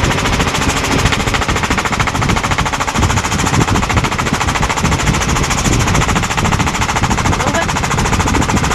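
Helicopter in flight, heard from on board: a steady, rapid, even chop of the main rotor blades over the engine noise.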